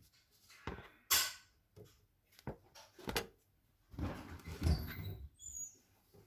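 Handling noises from pulling the plug out of a washing machine's drain hose: a short scrape about a second in, a few sharp clicks, then a longer stretch of rubbing with high squeaks near the end.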